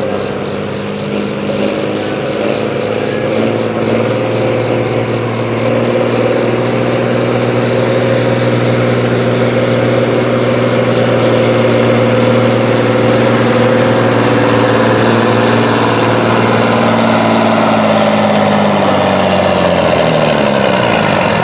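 A farm-stock pulling tractor's engine working under full load as it drags the weight-transfer sled down the track. It holds steady high revs and grows louder over the first few seconds, then its pitch falls over the last few seconds as the engine is pulled down and the run comes to a stop.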